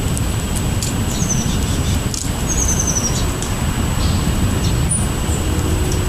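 Small birds chirping: scattered short high chips and two quick descending trills of short notes, over a steady low rumble.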